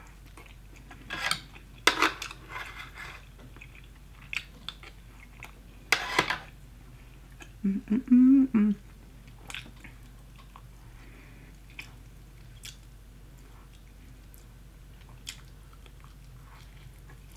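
Mouth-close crunching bites and chewing of Popeyes fried chicken, with several sharp crunches in the first half. About eight seconds in there is a short hummed voice sound.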